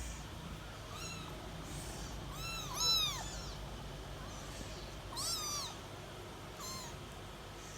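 Young kittens mewing: a handful of short, high, arching mews, the loudest two overlapping about three seconds in. An electric fan hums steadily underneath.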